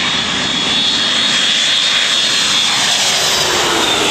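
Airplane flying low overhead. Its engines run loud and steady with a high whine, and a lower tone drops in pitch near the end as it passes.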